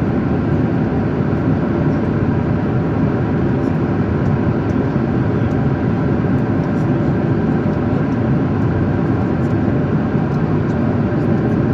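Steady cabin noise of an Aeroflot airliner in cruise flight: an even, loud low rush of jet engines and airflow.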